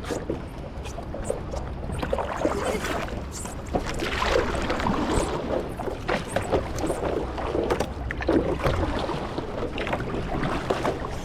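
Water splashing and lapping around a small paddled boat on the sea, with wind rumbling on the microphone.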